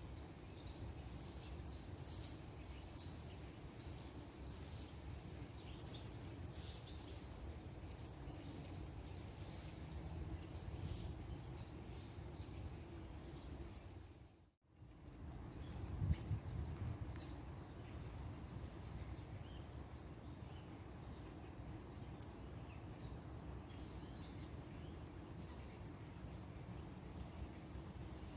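Small birds chirping, many short calls, over a steady low rumble of outdoor background noise. The sound drops out for a moment about halfway through.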